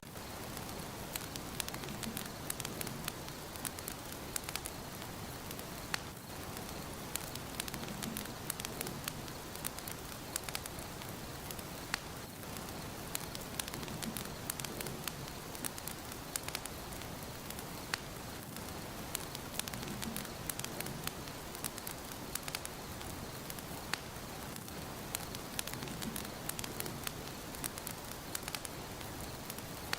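Wood fire burning in a fireplace, crackling with many small, irregular pops over a steady hiss, and a low rumble that swells about every six seconds.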